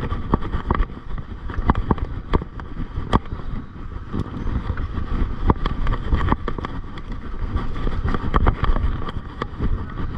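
Mountain bike ridden over a rough trail: a steady low rumble of wind and tyres on the microphone, with frequent sharp rattles and clicks as the bike jolts over bumps.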